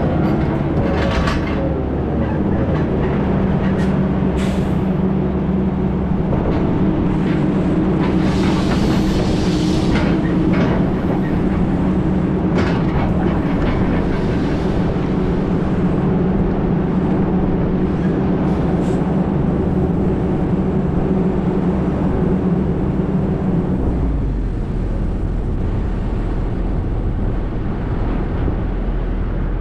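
A heavy vehicle's engine running steadily, with scattered clicks and rattles and a short hiss in the first half. Near the end its steady note gives way to a lower rumble.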